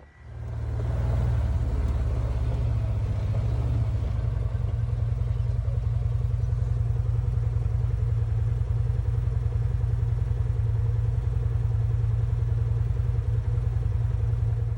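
A vehicle engine running steadily close by, a fast low pulsing without revving, and then it cuts off suddenly.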